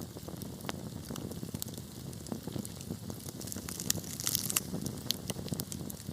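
Wood fire burning in a fireplace: a steady low hiss with frequent sharp crackles and pops, a quick cluster of them about four seconds in.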